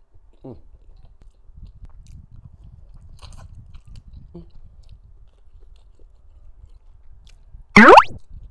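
Close-miked chewing of a mini shrimp-and-meat dim sum, soft and faint. Near the end a brief, loud rising sound effect cuts in.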